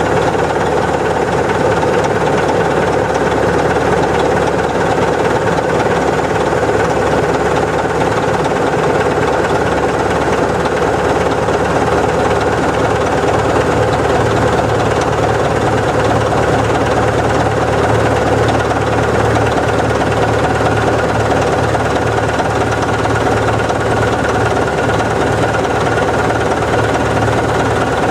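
Heavy Caterpillar diesel earthmoving engines running steadily while working dirt. A deeper low hum grows stronger about halfway through.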